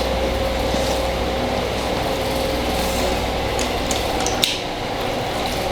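Raw chicken pieces squelching wetly as they are handled in a milk marinade, over a steady low hum, with one sharp click about four and a half seconds in.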